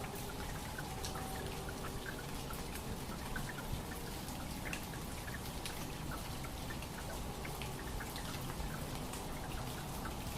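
Steady trickling water with many small drips scattered throughout.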